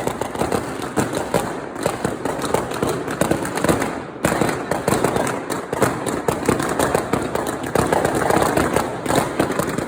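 Many fireworks and firecrackers going off at once in a dense, continuous crackle of bangs and pops.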